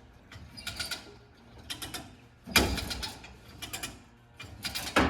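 Hand winch ratchet being worked stroke by stroke to pull a car onto a trailer. Each stroke is a quick run of pawl clicks, with a heavier clunk about halfway through and again near the end.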